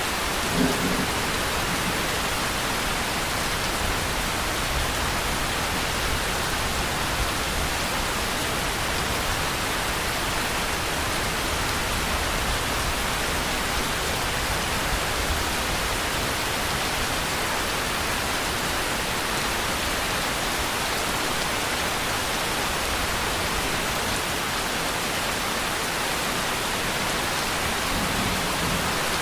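Steady, even rainfall with no breaks. There is one brief low knock about half a second in.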